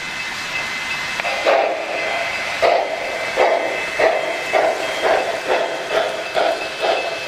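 Steam locomotive chuffing, its exhaust beats quickening from about one a second to about two a second as it gets under way, over a steady hiss.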